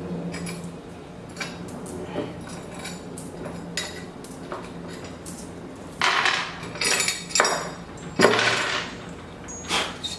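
Metal CNC parts and tools clinking and knocking as they are handled and set down on a workbench, with several louder metallic clatters in the second half.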